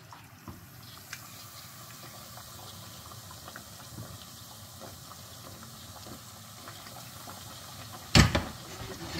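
Steady sizzling and bubbling of food cooking in a pan on the stove, with a few faint ticks. A single loud sharp knock about eight seconds in.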